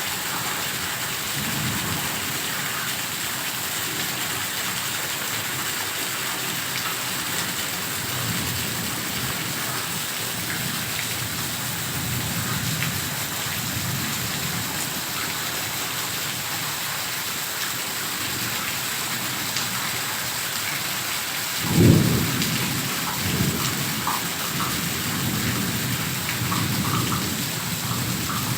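Heavy rain pouring steadily, with low thunder rumbling now and then. About three quarters of the way through a sharp, loud thunderclap breaks, followed by rolling rumbles.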